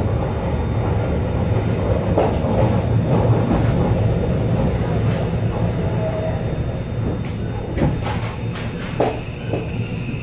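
Kobe Electric Railway electric train at the platform, a steady low rumble with a few short knocks.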